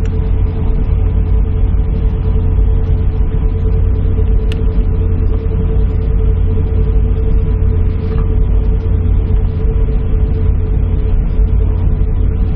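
Steady low rumble of an airliner's cabin with a steady mid-pitched hum through it, the aircraft stopped and holding in position after a rejected takeoff. A single faint click sounds about four and a half seconds in.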